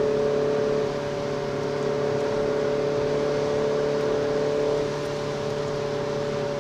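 Renault Clio RS 200's 2.0-litre four-cylinder engine heard from inside the cabin, holding steady high revs at speed over road and tyre noise, its pitch dipping slightly about a second in and again near five seconds.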